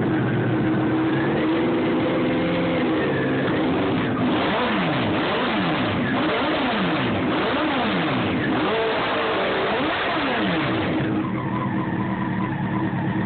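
1998 Honda CBR900RR inline-four engine through a modified D&D carbon-fibre shorty exhaust, revved in a run of quick throttle blips, the pitch rising and falling each time, from about four to eleven seconds in, then dropping back to a steady idle near the end.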